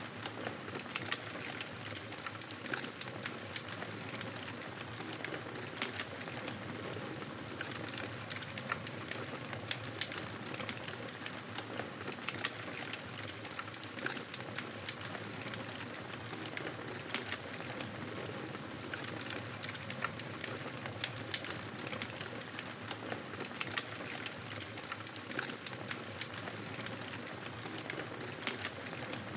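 Wood fire crackling, with frequent sharp pops and snaps over a steady soft hiss.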